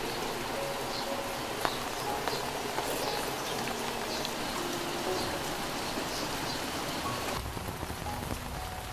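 Steady rain falling, with scattered drop ticks in the steady wash; about seven seconds in it turns duller and lower.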